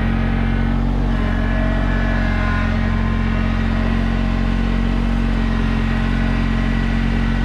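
Kubota BX2200 compact tractor's three-cylinder diesel engine running steadily at low throttle, with no change in speed.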